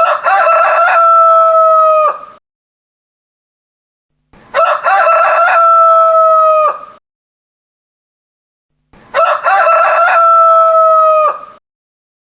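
Rooster crowing three times, each crow a cock-a-doodle-doo about two seconds long ending in a held note. The three crows are identical and come at even intervals, with complete silence between them.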